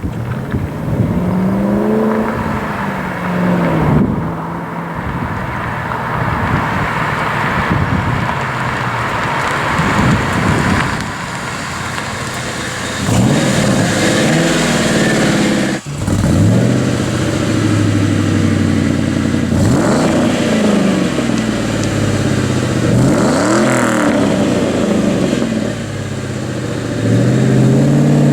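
V8 Mustang with an SLP aftermarket exhaust being driven, pulling up through the revs and dropping back several times as it accelerates and shifts, over road and wind noise.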